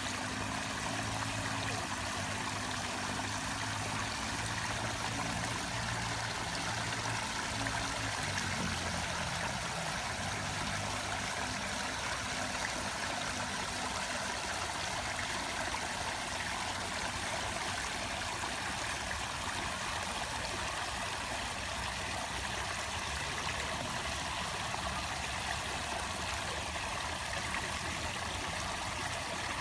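Running water rushing steadily, like a small stream or cascade. A low hum sits underneath for the first nine seconds or so, then fades.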